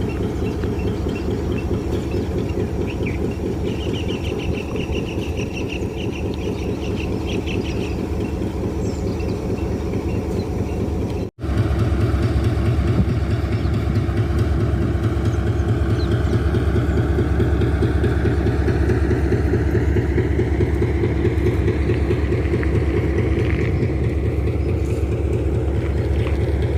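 A vehicle engine running steadily with a fast, even low throb. After a brief cut about eleven seconds in it is louder and heavier in the bass.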